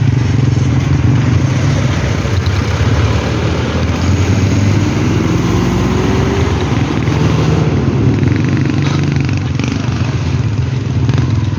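Motorcycle engine running while riding, with a steady drone. Its pitch rises and then falls back from about four to eight seconds in.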